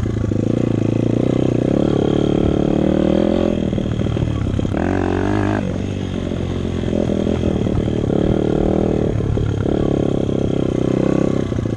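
Dirt bike engine running while being ridden, the revs rising and falling with the throttle, with a short burst of higher revs about five seconds in.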